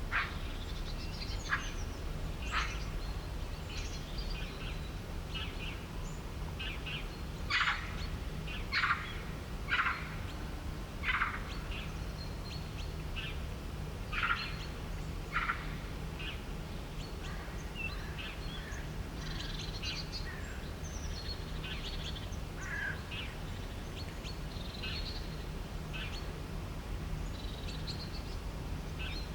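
Several birds chirping and calling in short notes, with a run of louder calls in the middle. A steady low hum and rumble underneath.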